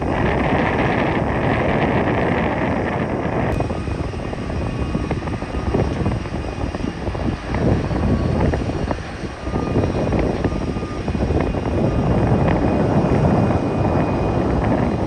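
Jet airliner engines running as the plane lands, a steady loud roar with gusty rumble underneath. The sound changes abruptly about three and a half seconds in.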